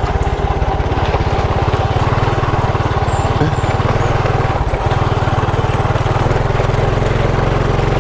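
Small motorcycle engine running steadily under way, a fast low putter, with a brief break in the beat about halfway through.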